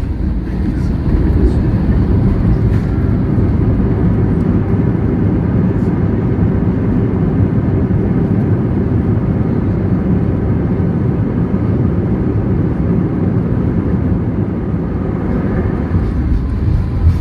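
Steady, loud rumble of a Boeing 737-800's engines and airflow heard inside the passenger cabin.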